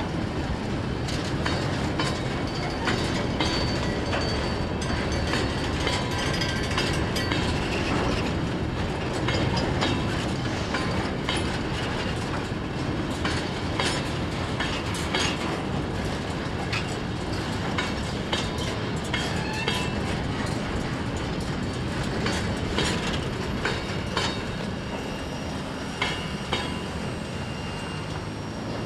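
Freight train wagons rolling past, their wheels clattering over rail joints in a steady run of clicks and knocks, with a few faint brief high wheel squeals.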